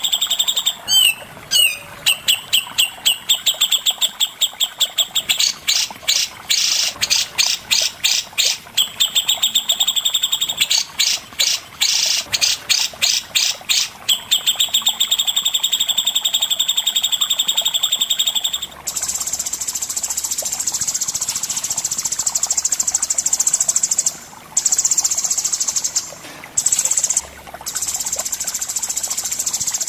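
Songbird masteran song: fast high trills of repeated notes, some in quick runs. About two-thirds of the way in it gives way to a steady, shrill, high buzzing trill broken by a few short pauses.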